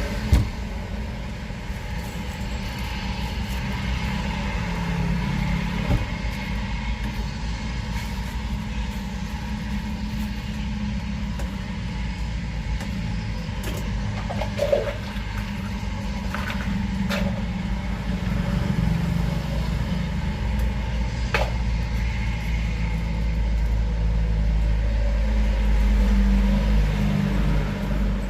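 Steady low rumble of passing road traffic, swelling a little near the end, with a few sharp clicks and knocks.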